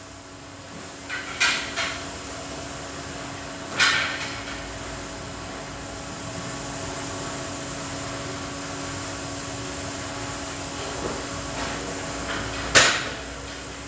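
A few sharp knocks, like hammer or tool strikes on metal or rubber, over a steady mechanical hum. There are three quick knocks just after the start, one more about four seconds in, and a louder one near the end.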